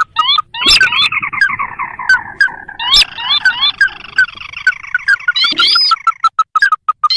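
Ruddy-breasted crake (sintar) calls used as a bird-trapping lure: quick repeated short rising notes, and from about a second in a long rapid run of notes that slowly drops in pitch, with sharp clicks scattered through.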